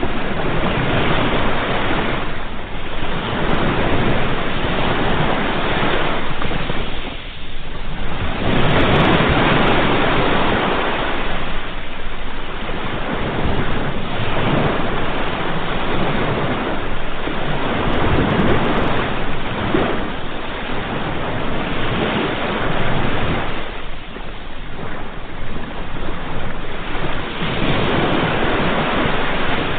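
Sea waves breaking and washing onto the shore, the surf swelling and fading every few seconds.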